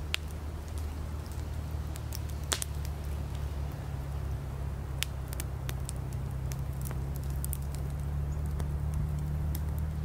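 Campfire firewood crackling, with scattered sharp pops and snaps, the loudest about two and a half seconds in and around five seconds in, over a steady low hum.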